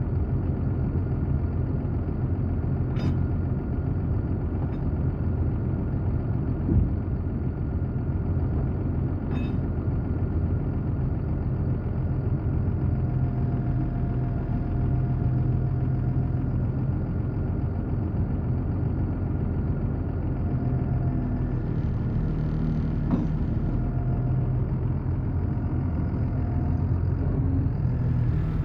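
Heavy equipment diesel engine idling steadily, with a couple of sharp clicks and a single knock.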